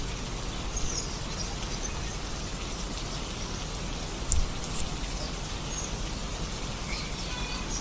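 Steady rain falling, an even hiss of drops, with a few faint high chirps over it.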